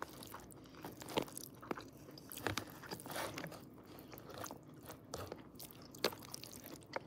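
Close-up chewing of a mouthful of pasta, with wet mouth sounds and scattered sharp clicks as a plastic fork works the noodles in the bowl.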